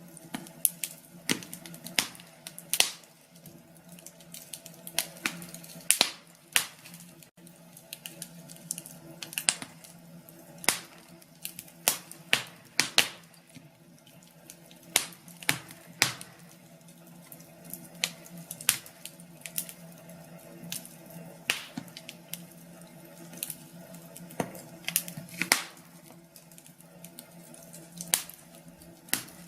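Wood fire in a fireplace crackling, with frequent sharp pops and snaps at irregular intervals over a faint steady low hum.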